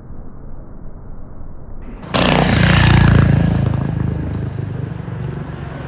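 Motor vehicle passing close by: its engine noise swells suddenly about two seconds in, peaks loudly, then fades away, over a low background rumble.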